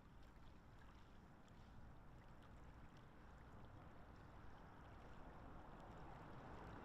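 Near silence: a faint, steady wash of lakeside water noise that grows slightly louder toward the end, with a few faint ticks.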